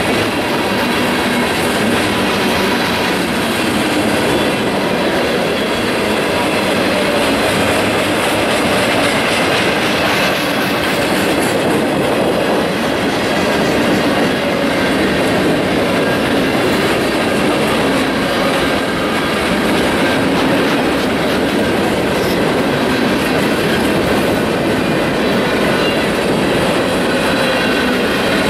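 Freight cars of a Union Pacific manifest train rolling past close by: a loud, steady noise of steel wheels running on the rails.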